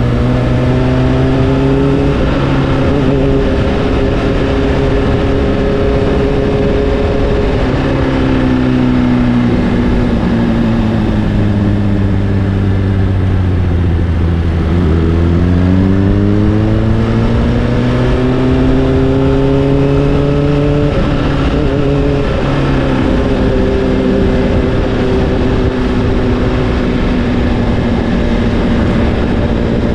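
Honda CBR600RR inline-four with an Akrapovic exhaust, riding through the gears. Its pitch climbs and drops at each shift early on, falls steadily while slowing to about halfway, then climbs again through the gears until about 21 s in. After that it settles to a steady cruise.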